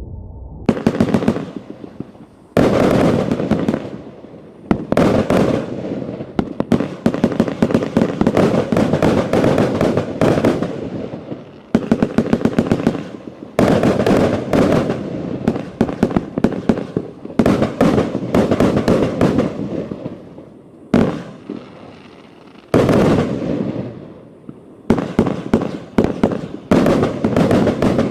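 A 102-shot 1.4G compound fireworks cake firing: runs of rapid bangs and dense popping lasting a few seconds each, broken by short lulls.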